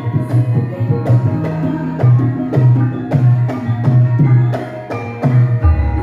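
Javanese gamelan ensemble playing a gending: drum strokes and struck bronze metallophone tones about twice a second. A deep sustained low note comes in near the end.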